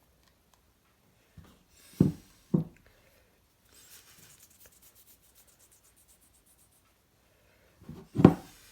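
Hand work on a pottery bowl being repaired with filler: three dull knocks, then a soft scraping as the paste is worked, then two more knocks near the end, the last the loudest.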